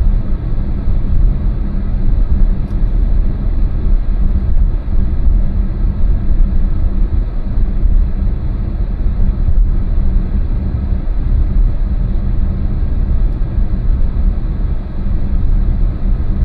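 A car driving, with a loud, steady low rumble of engine and road noise.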